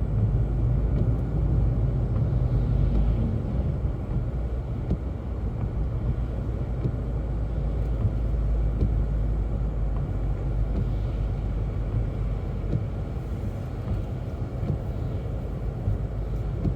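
Car driving, heard from inside the cabin: a steady low rumble of engine and tyres on a wet, snowy road.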